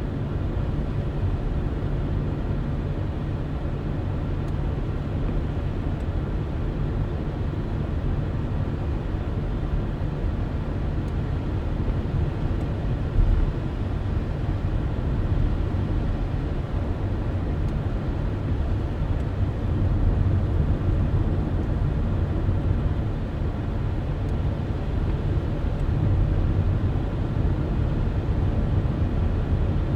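A car driving at a steady speed: continuous low road and engine rumble, with one brief bump about thirteen seconds in.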